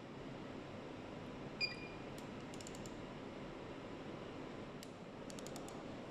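Steady factory-floor background noise with a short, sharp electronic beep about one and a half seconds in. Quick runs of light clicks follow, one about two seconds in and another near the end.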